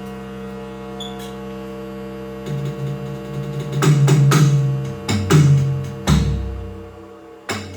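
Electronic improvisation: a sustained synthesizer drone of several steady tones, joined about two and a half seconds in by low bass notes and, from about four seconds in, by scattered electronic drum hits.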